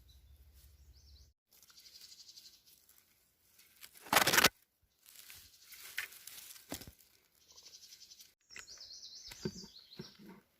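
Rustling and handling noises as berries are picked from the bushes, with one loud brushing burst about four seconds in; faint high bird chirps near the end.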